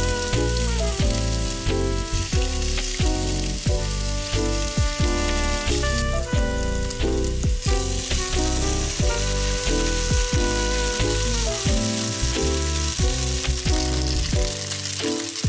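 Vegetables and bacon sizzling in hot oil in a frying pan as they are stir-fried, with a louder spell of sizzling about halfway through as cooked udon noodles go into the pan. Background music with a melody and bass line plays throughout.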